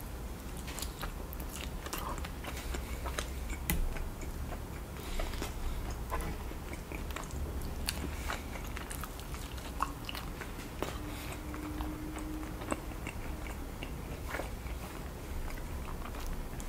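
Close-miked chewing and wet lip-smacking of a person eating sauce-covered rotisserie chicken by hand, with many scattered sticky clicks.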